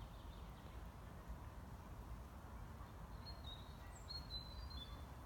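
Faint outdoor ambience with a steady low rumble, and a small bird giving a few short high chirps about three seconds in.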